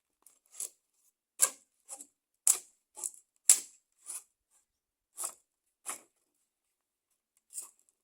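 Sharp wooden clicks and knocks, about a dozen irregular strokes with a pause near the end, as sticks are woven and pressed into a stick fence.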